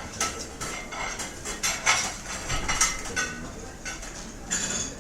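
Restaurant ambience dominated by cutlery and dishes: repeated clinks and scrapes of silverware on plates, several a second, over a low background murmur.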